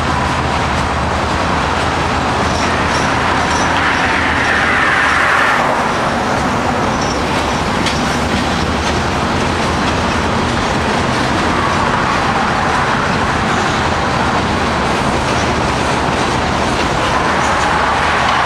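Freight train cars rolling past at steady speed, their steel wheels clattering over the rails in a continuous rumble. Thin squeals from the wheels slide in pitch now and then, strongest about four to five seconds in.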